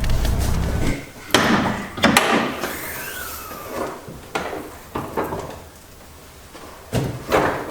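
A low steady engine hum cuts off about a second in. It is followed by a few sharp knocks and thuds and a short falling creak, like car doors or the hood being handled.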